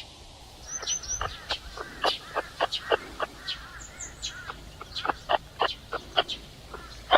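Birds calling: a run of short, sharp repeated calls about two to three a second, with a few quick high chirps about a second in.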